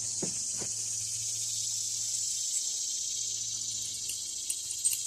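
Steady, high-pitched chirring of an insect chorus in the background, with a few faint clicks near the start and near the end.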